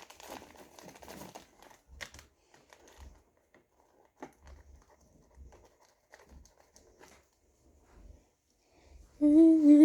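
Faint crinkling and rustling with scattered small clicks and taps, as of plastic and packaging being handled while tidying up. Near the end a person starts to hum.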